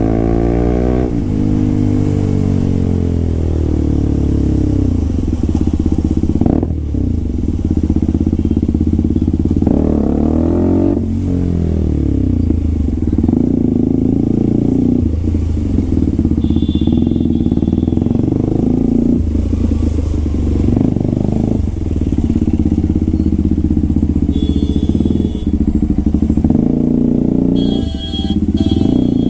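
Motorcycle with a loud SC Project aftermarket exhaust under way, its engine pitch rising and dropping again every few seconds as it accelerates and changes gear.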